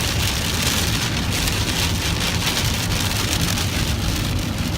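Heavy rain pouring down steadily in a severe thunderstorm.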